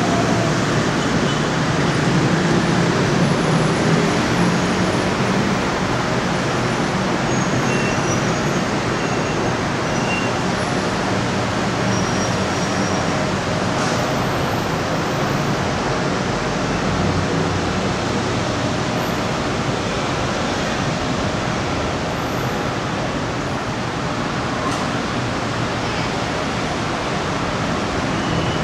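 BTS Skytrain electric train pulling into an elevated station and standing at the platform: a steady rumble and hiss, louder in the first few seconds as it comes to a stop.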